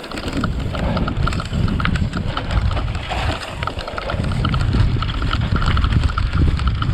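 Wind buffeting the microphone, with tyre noise and rattles from an e-bike being ridden over rough ground. A faint, regular high ticking of about five ticks a second runs underneath.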